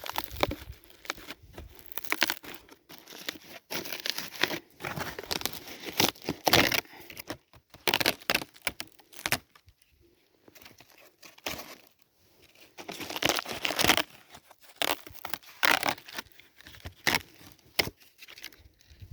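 Bark being torn and crumpled by hand as fire tinder: irregular ripping and rustling, with a short lull about ten seconds in.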